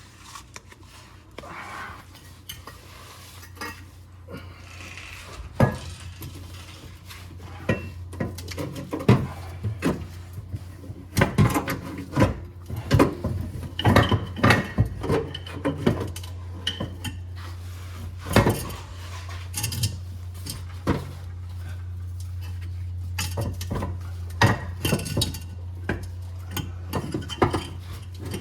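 Irregular metallic clanks and clinks as a welded exhaust pipe section is handled and worked into place under a car, knocking against metal. The knocks come thickest through the middle, over a steady low hum.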